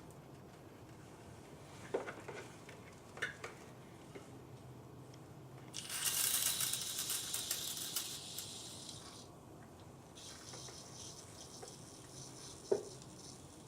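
Aerosol can of engine degreaser spraying into a distributor housing: a loud hiss of about three seconds, then after a short break a second, quieter spray of about four seconds. A few light knocks from handling the parts, one near the start and a sharper one near the end.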